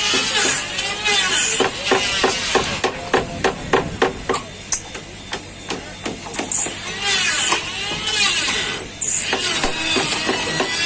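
Metalwork clatter: a fast run of sharp hammer knocks on metal from about two to five seconds in, with irregular clanking and rattling of tools around it.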